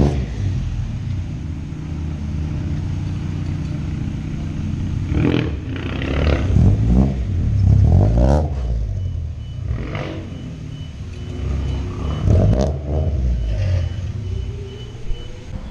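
Car engine idling with a steady hum, then revved again and again in short throttle blips, each swelling and falling back, from about five seconds in.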